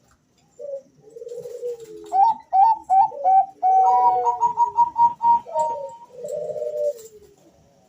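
Male zebra doves of the Bangkok song strain (perkutut) cooing, two birds answering each other. Low drawn-out coos lead into a quick run of higher, clipped notes about two seconds in, and the two birds' phrases overlap in the middle. Low coos close the phrase near the end.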